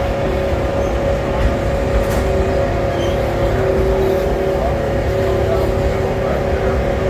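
Amusement park train running along the track, heard from aboard: a steady rumble with a constant hum on top.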